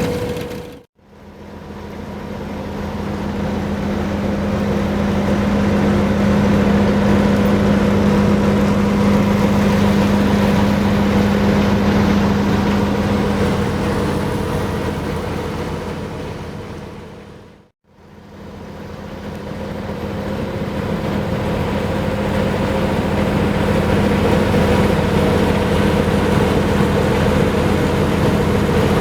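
Steady engine drone with a constant low hum, the sound cutting out abruptly about a second in and again a little past halfway, each time fading back up.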